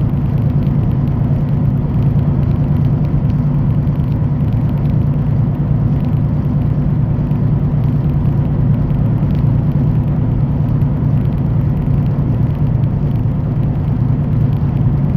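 Semi-truck engine and road noise on the move: a steady low drone.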